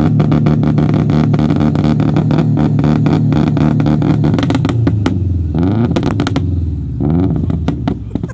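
Turbocharged Subaru Impreza flat-four with anti-lag, held at high revs with a rapid, continuous stream of exhaust pops and bangs for about four seconds. The revs then drop, and the engine is blipped twice more, each blip bringing another quick burst of bangs.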